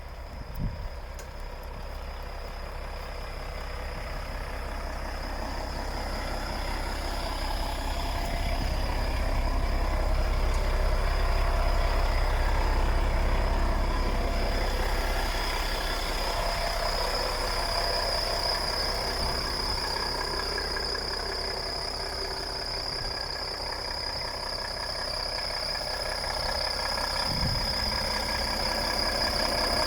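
Volvo FH 460 truck's 13-litre straight-six diesel idling steadily, with a constant high whine over the engine sound. It grows louder over the first ten seconds or so, then holds level.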